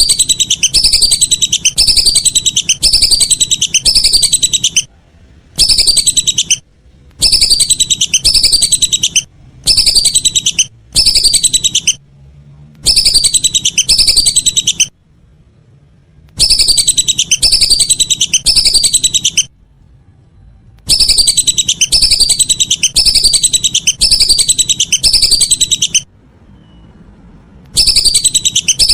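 Whistling duck (belibis) calls played as a lure recording: loud runs of rapid, high, repeated whistling notes, each run lasting one to five seconds, with short pauses between runs.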